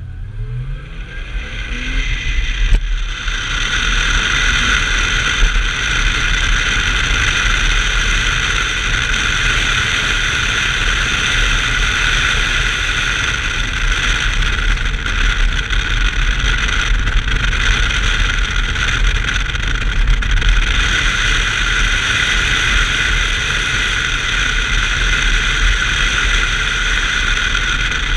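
1990 BMW 325i's 2.5-litre straight-six pulling away with its pitch rising over the first couple of seconds, then running loud and steady at speed.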